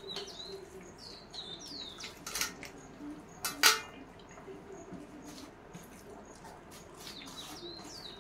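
Small birds chirping in short, quickly bending calls at the start and again near the end. About three and a half seconds in comes a sharp clink of steel dishware, the loudest sound, with a softer knock a second before it.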